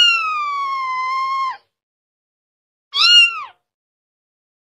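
Kitten meowing: one long, slowly falling meow lasting about a second and a half, then a shorter meow about three seconds in.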